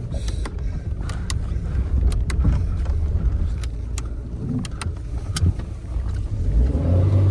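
A car in motion: a steady low rumble of engine and road noise, with scattered light clicks.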